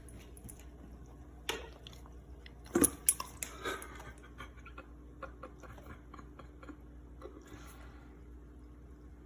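A dog lapping and licking at sparkling water: a run of short wet clicks and smacks from its mouth, loudest about three seconds in.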